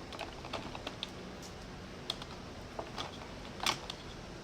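Light, scattered clicks and taps of miniature toy pizza boxes being handled and set into a toy fridge shelf, with a sharper click about three and a half seconds in.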